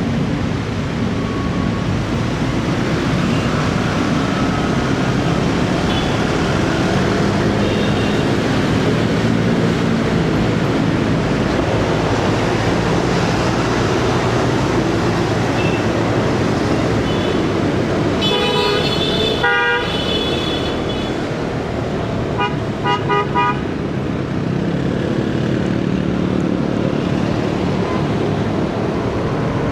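Motorcycle riding in city traffic: steady engine and road noise, with a vehicle horn sounding for about two seconds some two-thirds of the way through, followed shortly by a few quick short toots.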